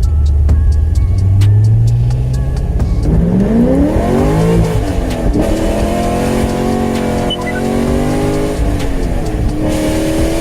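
Car engine running and revving: its pitch climbs about three seconds in, holds fairly steady, then rises again near the end.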